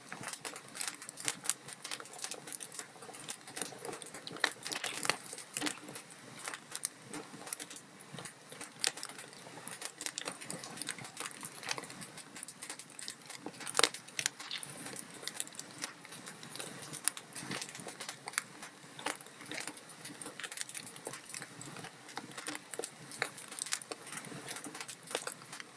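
Wood log fire crackling, a dense run of small irregular snaps and pops, with one louder pop about fourteen seconds in.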